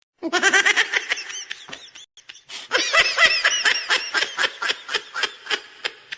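A person laughing hard in two bouts of quick, repeated pulses, the second bout starting about two and a half seconds in. It starts and cuts off suddenly out of dead silence, like a laughter sound effect.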